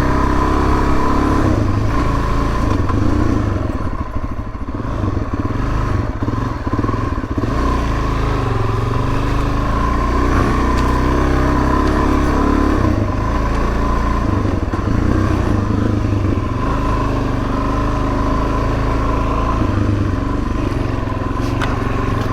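Suzuki DRZ400S single-cylinder four-stroke dirt bike engine running steadily under way on a trail, heard from a bike-mounted mic. The throttle eases briefly about four seconds in, then picks back up.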